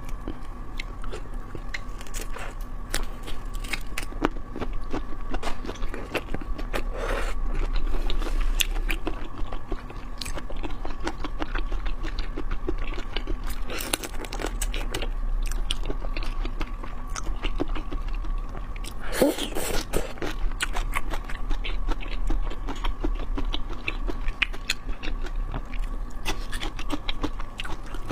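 Chewing and biting into prawns, with many quick wet clicks and crunches and a couple of louder bouts of biting.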